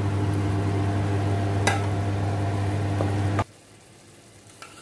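Cauliflower and potato curry sizzling in a metal kadai as a wooden spatula stirs it, with a few sharp clicks of the spatula against the pan over a steady low hum. The sound cuts off abruptly about three and a half seconds in, leaving only faint background.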